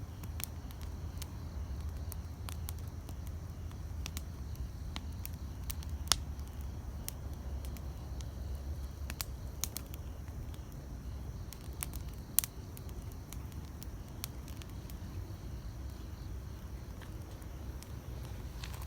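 Wood campfire crackling: scattered sharp pops and snaps over a low steady rumble, the loudest pops about six and twelve seconds in.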